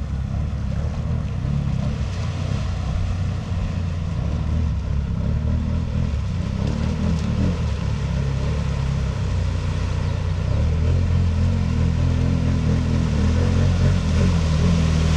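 Can-Am 1000's engine running steadily at low revs, getting a little louder about ten seconds in.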